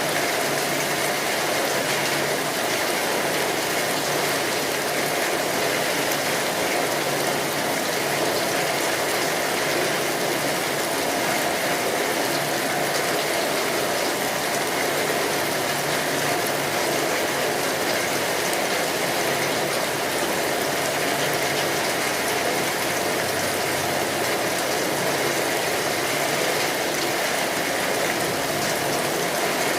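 Rain on a tin roof: a steady, dense patter of drops on the metal sheeting that does not let up.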